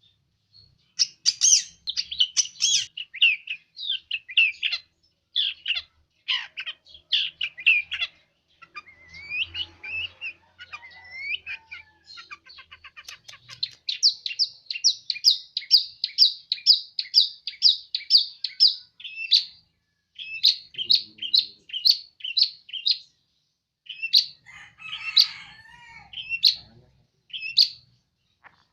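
Long-tailed shrike (cendet) singing a fast, varied string of sharp chirps and squeaky notes. In the middle it settles into a steady run of repeated notes, about four a second. This bird is known for mimicking chickens, chicks and cats.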